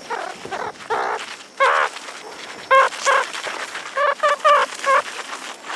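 Meerkats giving a series of short, pitched calls, coming more rapidly, about two a second, in the second half.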